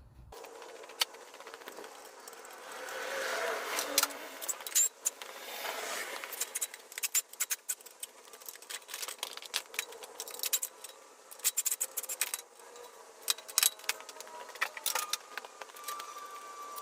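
Irregular small metal clicks, clinks and rattles of hand tools and engine parts being handled, coming in quick clusters, with a soft rushing swell about three seconds in.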